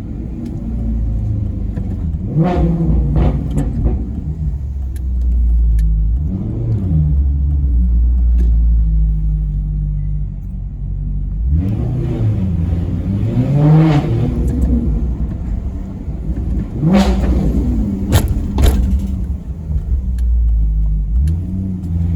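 Maserati Quattroporte Sport GT V8 engine with a low rumble, revved in sharp throttle blips: two quick ones a few seconds in, a longer climb in revs and drop around the middle, and two more sharp blips near the end.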